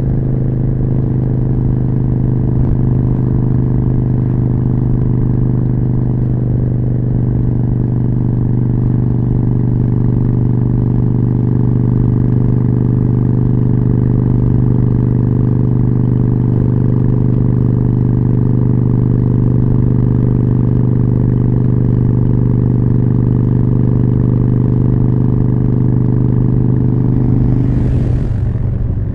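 Harley-Davidson Forty-Eight's V-twin engine through a Jekill & Hyde exhaust, running at a steady, unchanging pitch while cruising. Near the end a brief hiss passes and the engine pitch drops.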